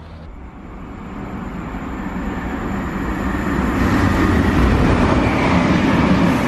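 Chiltern Railways diesel passenger train moving along the line close by, its engine and wheel noise growing steadily louder over the first few seconds and staying loud.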